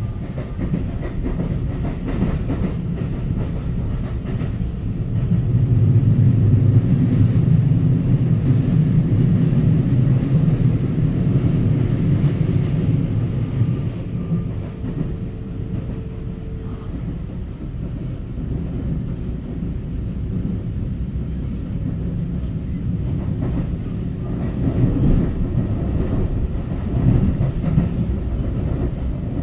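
Taiwan Railway EMU900 electric multiple unit running between stations, heard from inside the carriage: a steady low rumble of wheels on track that swells louder for several seconds about a fifth of the way in. A faint steady whine sits under it through the middle.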